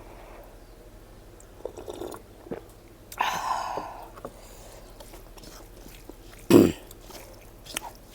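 A person chewing and eating smoked pork with anishi close to the microphone, with small wet mouth clicks. A louder breathy sound comes a little after three seconds, and a short loud sound about six and a half seconds in.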